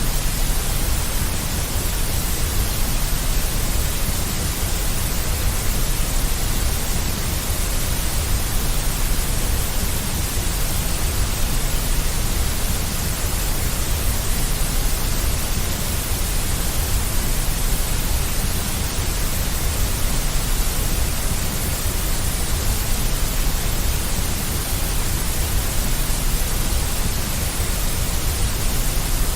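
Steady generated deep white noise: an unchanging hiss over a heavy low rumble, with no variation.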